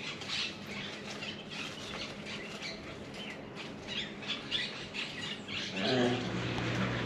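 Puppies chewing squeaky toys: quick, irregular high squeaks, many in a row. A brief low sound joins near the end.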